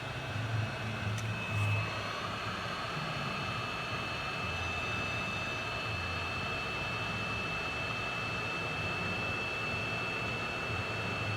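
A small electric blower-type air tool running steadily: a rush of air with a constant high-pitched whine over a low hum.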